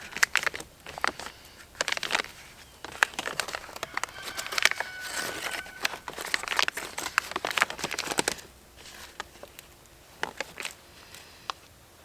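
Tarp fabric being handled, crinkling and rustling with many small clicks as cord is pinned into its pocket. The handling goes quieter about two-thirds of the way through, leaving a few scattered clicks.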